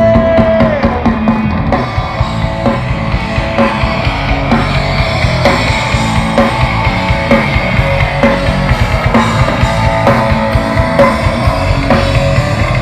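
Live rock band playing: a drum kit keeps a steady beat under guitar, after a held note dies away in the first second.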